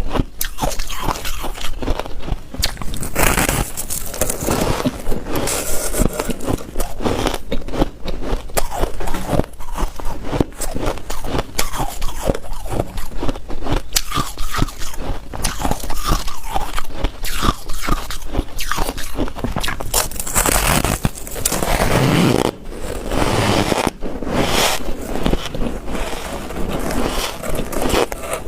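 Hard white ice cubes being bitten and chewed: continuous, irregular crunching and cracking, with heavier bites here and there.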